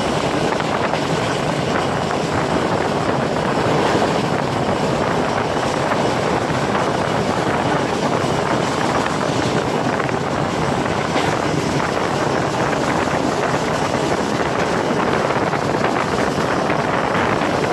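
Passenger train running at speed, heard from its open window: a steady rush of wheels on the track mixed with wind buffeting the microphone.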